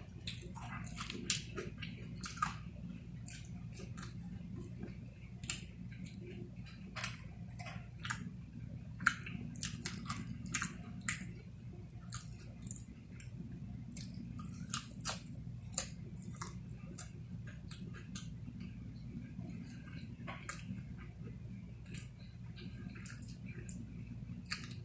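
A person chewing food close to the microphone, with many short clicks and smacks of the mouth, over a steady low hum.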